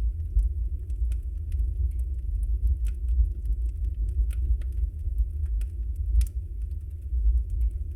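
Wood fire burning in a fireplace: a steady low rumble of flames with sparse sharp crackles and pops, the loudest pop a little after six seconds in.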